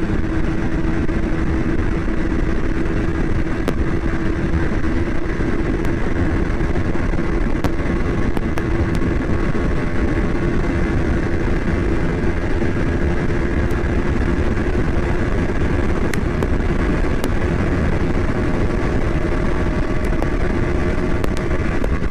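2023 KTM Duke 200's single-cylinder engine held at full throttle on a top-speed run, one steady high note that creeps slowly higher as the bike gains speed from about 124 to 136 km/h. Heavy wind rush on the microphone runs under it.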